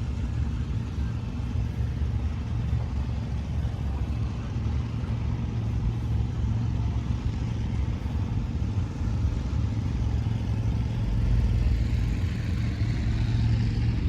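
A car engine running steadily at low revs with a deep exhaust note, growing slightly louder about eleven seconds in.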